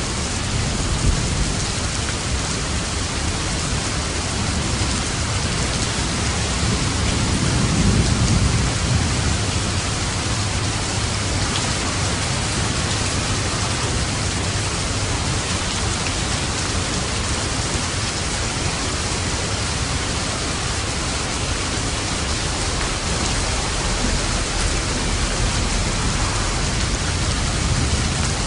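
Steady heavy rain falling, with a low roll of distant thunder swelling and fading about a third of the way in.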